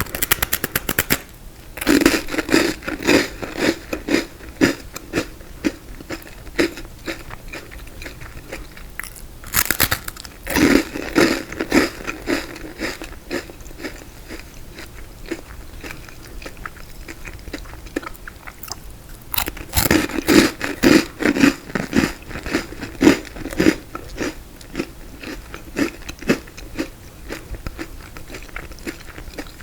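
Close-miked biting and chewing of frozen tiramisu, crunching icily. Three bouts of loud crunchy chewing come about ten seconds apart, with quieter chewing between them.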